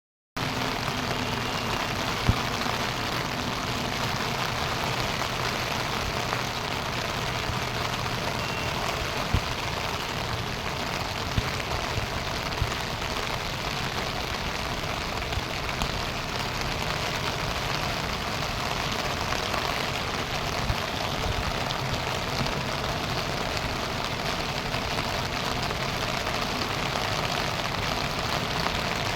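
Steady rushing noise of heavy rain and water, with a few sharp knocks scattered through it.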